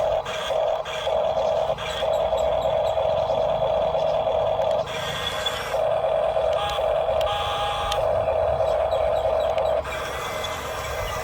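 Small electric motor and gearbox of a Hulia radio-controlled toy construction vehicle whining steadily at one pitch while driving. The whine stops briefly a few times and drops in level near the end.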